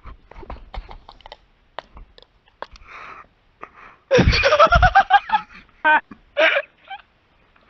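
A person's loud non-speech vocal sound about four seconds in, lasting about a second and rising in pitch, followed by two short vocal bursts.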